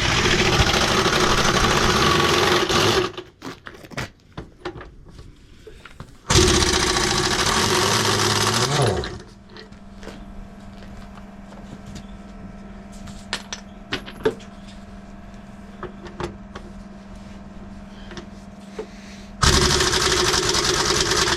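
Three loud bursts of machinery running, each lasting about two to three seconds. Between them a quieter steady hum carries scattered clicks and knocks.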